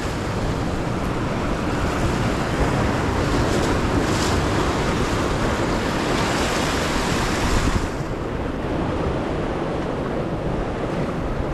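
Ocean surf washing against jetty rocks, a steady rushing hiss with some wind on the microphone; the high hiss eases about eight seconds in.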